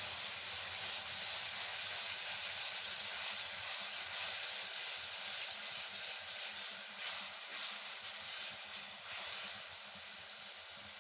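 Masala paste sizzling and hissing in hot oil in a kadai, just splashed with water to keep the spices from burning. The hiss eases a little near the end.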